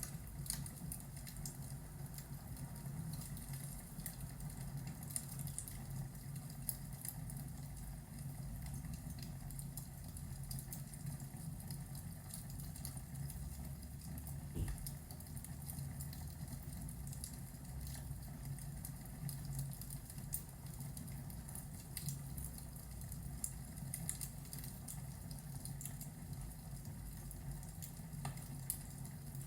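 Fireplace ambience: a steady low rumble with many small crackles and pops scattered throughout.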